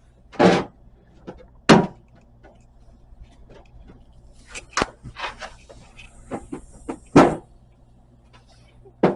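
Sheet-metal floor patch panel knocking and scraping against the car body as it is set into the rusted-out rear floor opening: a string of sharp clunks, with scraping in the middle, over a steady low hum.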